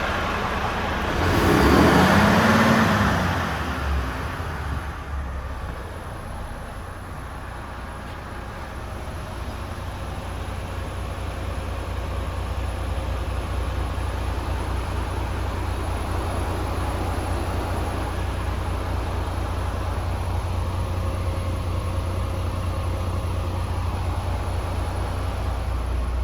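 Diesel engine of a Renault T460 truck running, the 11-litre turbo Euro 6 engine, mostly at a steady low idle. A louder surge rises and falls in pitch about two seconds in.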